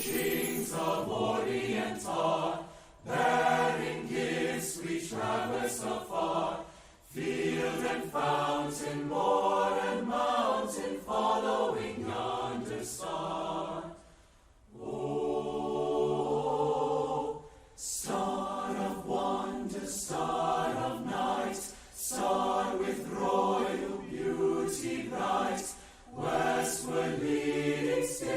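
A school choir singing, in phrases of a few seconds each with short breaks for breath between them.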